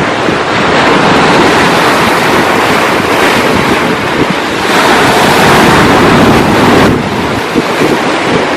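Ocean waves breaking and washing on the shore, with wind buffeting the microphone. The surf swells loudly twice and drops off abruptly about seven seconds in.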